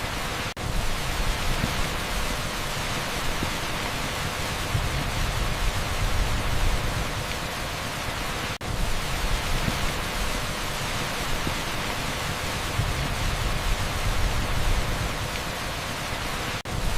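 Heavy, steady downpour on asphalt, a dense even hiss with a strong low rumble underneath. It dips out for an instant three times, about every eight seconds.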